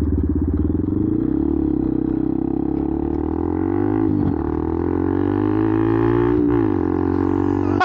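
Benelli TNT 125's single-cylinder four-stroke engine running loud through an upgraded exhaust while riding, its pitch dipping and rising again about four seconds in and again about six and a half seconds in.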